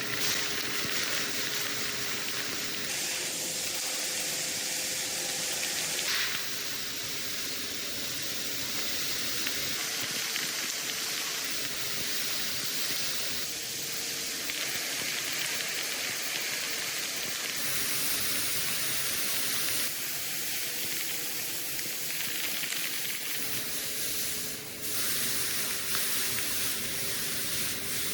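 Steady hissing of workshop power-tool work with a faint motor hum underneath, in short runs that change every few seconds.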